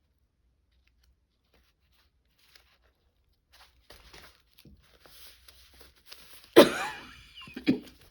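Paper being handled: quiet at first, then light rustling, with a loud crinkling tear about six and a half seconds in and a shorter one near the end.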